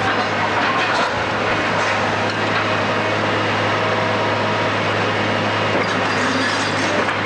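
Heavy demolition machinery running steadily, with a few faint knocks over the din.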